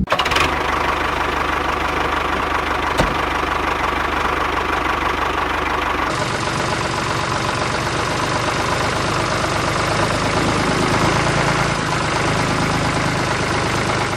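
Small engine running steadily with a fast, even beat, with a short click about three seconds in.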